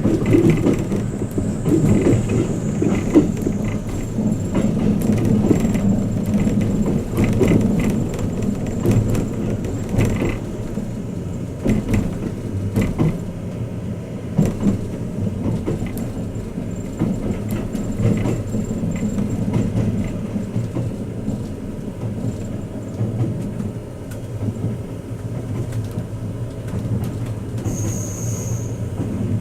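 Twilight Express Mizukaze sleeper train running, heard inside a guest compartment: a steady low rumble with scattered clicks from the wheels and track. A brief high tone sounds near the end.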